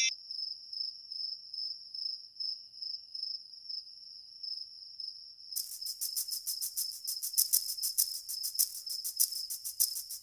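Cricket-like insect trilling: a steady, pulsing high-pitched trill, joined about halfway through by a louder, much faster chirping.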